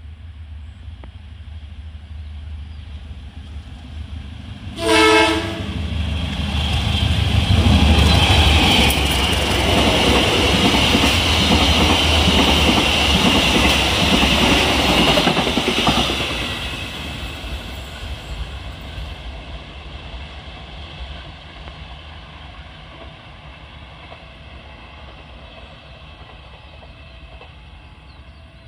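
A diesel-hauled KAI Kutojaya Selatan passenger train running through a station at speed without stopping. One short horn blast about five seconds in, then the locomotive's low rumble and the coaches' wheel noise swell, stay loud for about ten seconds and fade as the train moves away.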